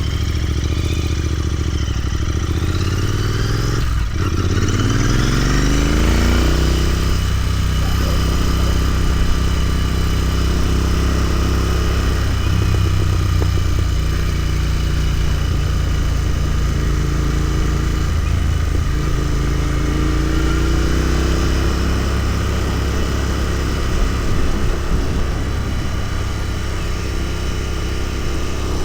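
Royal Enfield Continental GT 650's 648 cc parallel-twin engine accelerating, with a brief break about four seconds in as it shifts up, then running at steady revs. It picks up again around twenty seconds in.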